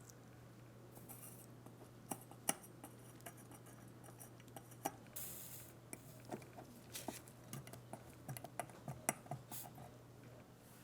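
Irregular light clicks and taps of small metal parts being handled on a workbench, coming more often in the second half, with a short hiss about five seconds in.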